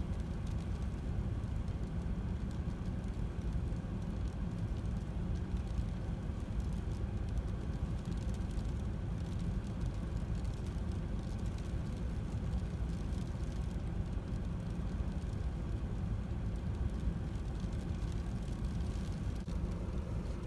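Steady low rumble of an idling vehicle engine, heard from inside a car's cabin.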